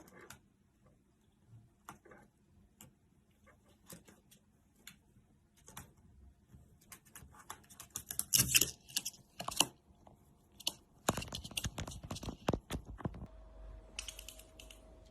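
Irregular light clicks and taps on a hard object, bunching into quick runs of clicking about eight to ten seconds in and again about eleven to thirteen seconds in. A faint steady tone comes in near the end.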